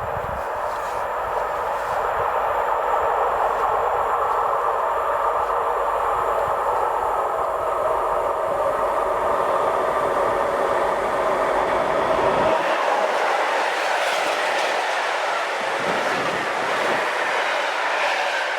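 A train passing on the line: a loud, steady rush of wheel and rail noise, with the high hiss growing in the last few seconds.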